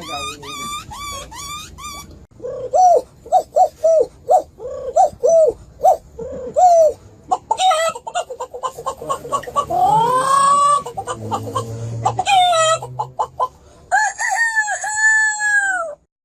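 Birds calling: first a quick run of high repeating chirps, then a series of short clucking calls about two a second, then longer rising, arching calls like crowing. The sound cuts off suddenly near the end.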